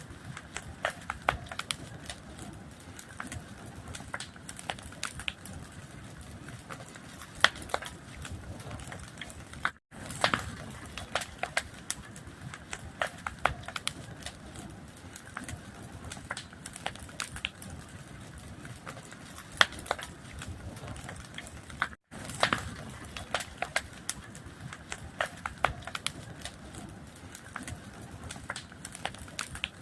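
Wood fire crackling, with irregular sharp pops and snaps over a steady low rush of burning. The sound cuts out for a split second twice, about ten seconds in and again about twenty-two seconds in.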